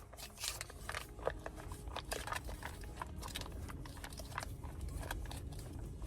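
Irregular small clicks, crackles and rustles of things being handled at close range, over a low steady rumble.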